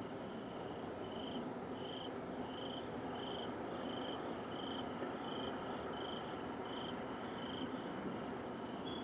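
A steady, deep rumbling drone of unknown origin, which the recordist hears as coming from the sky, runs without a break. Over it a cricket chirps evenly, about twice a second.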